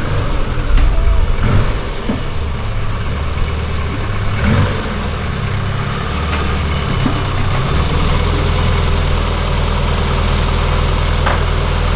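A classic Rover Mini's A-series four-cylinder engine running at low revs as the car creeps slowly forward. The hum grows steadier and louder in the second half as the car draws near.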